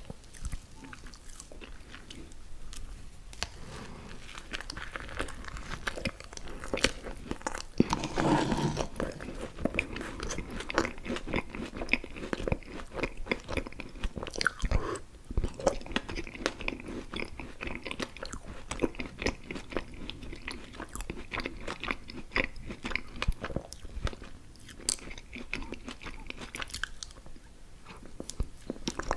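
Close-miked mouth sounds of a person eating: continuous chewing and biting, a dense stream of small clicks, with a louder mouthful about eight seconds in.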